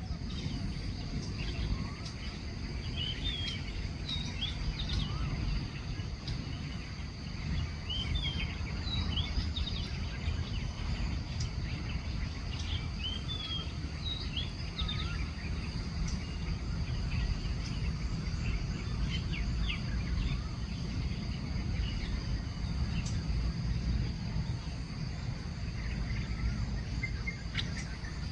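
Birds chirping with many short, quick calls over a steady high insect drone and a low steady rumble.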